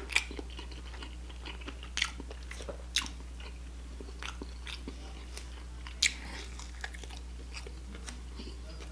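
Close-miked chewing and mouth smacking while eating tender spare ribs, with irregular sharp, wet clicks every second or so.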